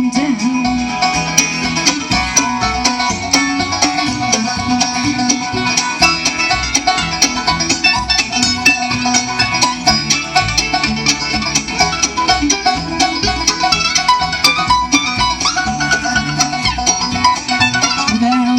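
Live bluegrass band playing an instrumental break, with fast banjo picking to the fore over guitar and steady bass notes.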